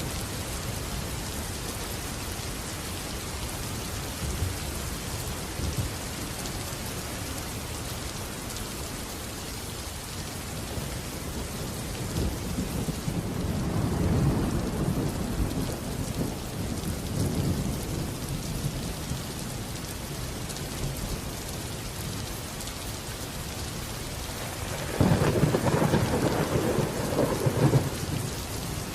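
Steady rain falling, with thunder rumbling in the middle and a sudden, louder thunderclap about three-quarters of the way through that rolls on for a few seconds.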